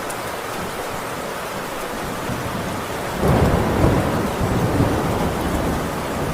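Heavy rain drumming steadily on a tin roof, with a roll of thunder swelling up about three seconds in and rumbling on.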